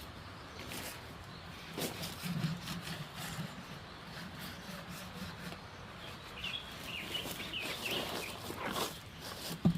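Beeswax being rubbed and scraped onto a wooden bee hive box, an irregular rasping with scattered light knocks and a sharper knock near the end.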